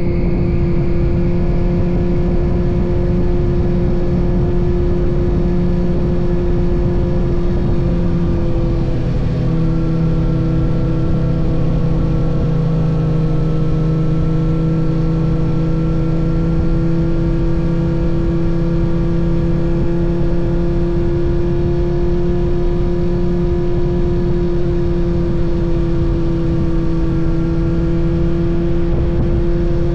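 Kawasaki ZX-6R's 636 cc inline-four engine running at a steady cruising speed under way, with a small dip and shift in pitch about nine seconds in, then holding steady with slight rises and falls.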